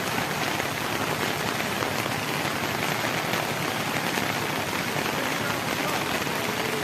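Heavy monsoon rain falling steadily, a dense, even hiss of drops striking surfaces.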